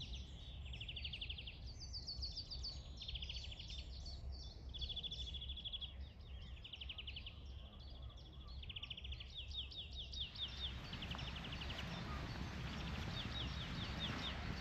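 Birds singing outdoors at dawn, repeated fast trilling phrases about a second long with short gaps between them. About ten seconds in, a steady rushing noise sets in beneath the song.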